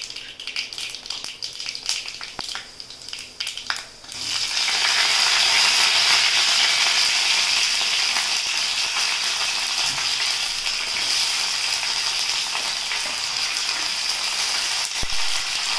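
Mustard and fenugreek seeds crackling and popping in hot sesame oil. About four seconds in, shallots, garlic and curry leaves go into the oil and a much louder, steady sizzle takes over.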